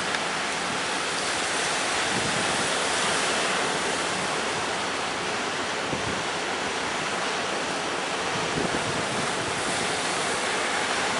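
Steady rush of wind and sea waves, with wind blowing across the microphone.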